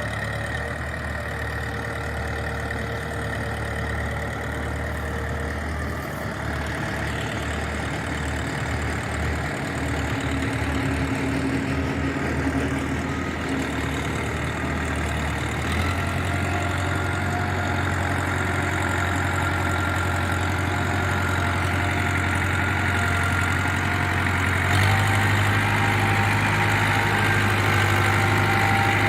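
Powertrac 4455 BT tractor's diesel engine running steadily, its speed stepping up about halfway through and again near the end.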